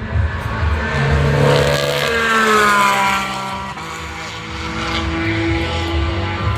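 Racing car engine running hard. Its pitch falls between about two and three seconds in, then holds steadier toward the end.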